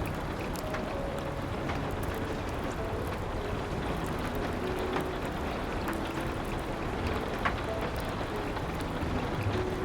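Steady rain against a window, with scattered crackles from a wood fire and a few soft, sparse piano notes.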